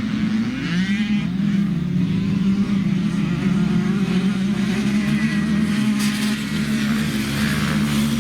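Dirt bike engine running, its note rising and falling as the throttle is worked.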